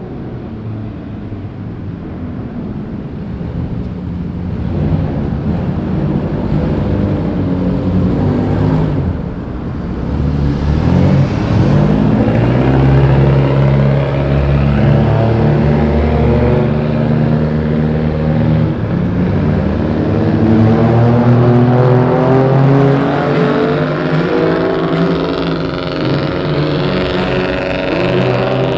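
Modified car engine through a loud exhaust. The engine note climbs sharply about a third of the way in, then stays high and fairly steady with small changes in pitch.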